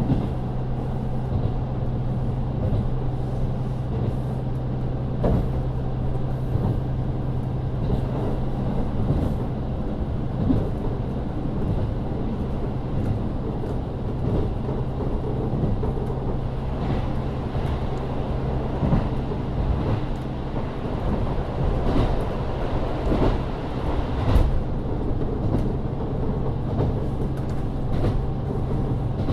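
KiHa 40 diesel railcar heard from inside the cabin while running, its N-DMF13HZB six-cylinder diesel engine giving a steady low drone. Scattered knocks and clatter run through it.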